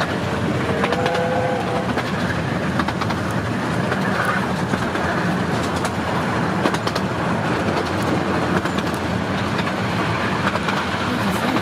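Miniature-gauge passenger train running along the track: a steady rolling rumble of wheels on rail, with irregular sharp clicks over the rail joints.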